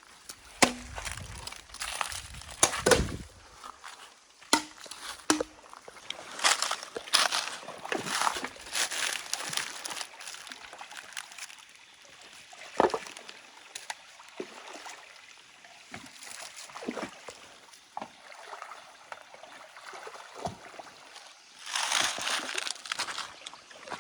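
Stream water sloshing and splashing in irregular bursts, with a few sharp knocks, the loudest splashing near the end.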